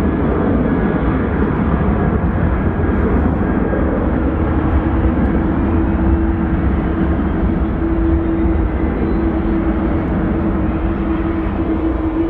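Jet airliner engines running: a loud, steady rumble with a constant low drone.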